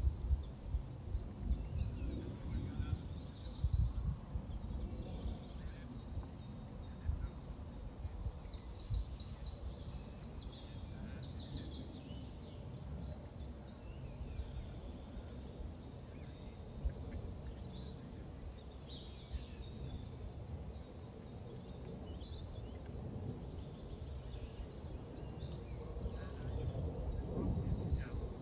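Small birds chirping and calling, with a quick run of rapid calls about nine to twelve seconds in, over a low, steady rumble.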